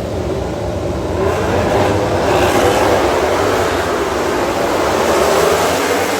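Racing motorcycle engines at high revs going past on the track, the sound swelling about a second in and staying loud.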